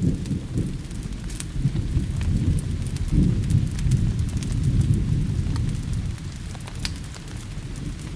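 Thunder rumbling low and continuously, swelling and easing, over a steady hiss of rain. Sharp scattered crackles come from a wood fire burning in a fireplace.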